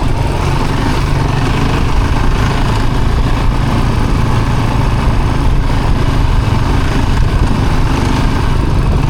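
Steady engine and drivetrain rumble of an off-road vehicle under way, heard from on board, heavy in the low end and even throughout.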